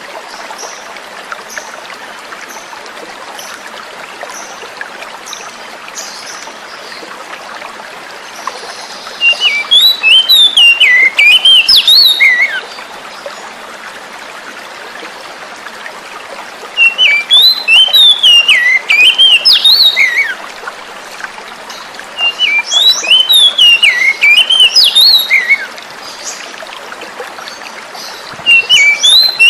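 Oriental magpie-robin (kacer) singing: four loud phrases of about three seconds each, made of quick notes jumping up and down in pitch, the first starting about nine seconds in. Beneath it runs a steady sound of flowing water.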